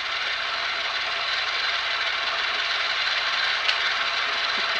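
Ice cream maker churning: a steady mechanical whir with some rattle.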